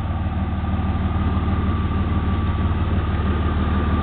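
2001 Ford Escape's 3.0-litre V6 idling steadily, a low, even rumble with a faint steady whine above it. The exhaust Y-pipe is rusted out and, in the owner's words, not working.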